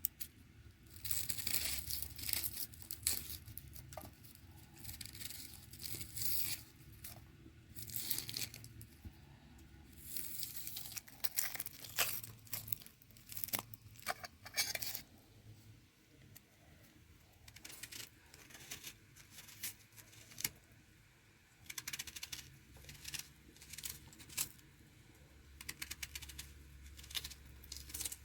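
Irregular bursts of tearing and crinkling handling noise with scattered sharp clicks, pausing briefly now and then.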